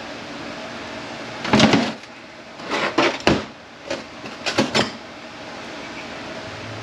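Clunks and knocks of metal automatic-transmission parts being handled and set down on a workbench: one loud knock about one and a half seconds in, a cluster around three seconds, and another pair near five seconds, over a steady background hum.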